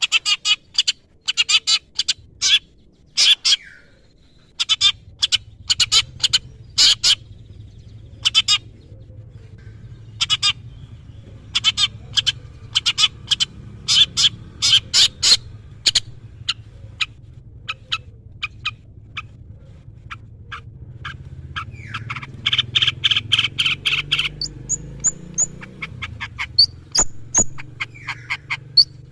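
Long-tailed shrike (cendet) singing hard: rapid series of short, sharp calls and a dense chattering run near the end, with a few thin high notes mixed in. A low steady hum sits underneath from about five seconds in.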